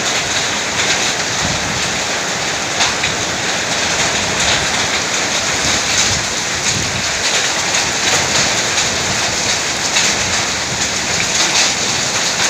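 Heavy rain with hail pouring down in a summer storm. It makes a steady, dense hiss, flecked throughout with sharp taps of stones and drops striking.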